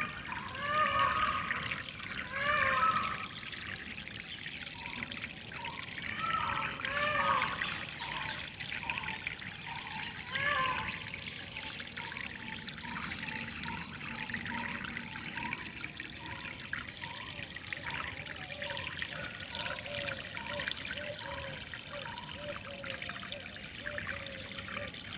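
Water trickling and flowing steadily, with a bird calling over it in repeated arched, pitched notes: a few louder calls in the first half, then a quicker run of shorter notes through the rest.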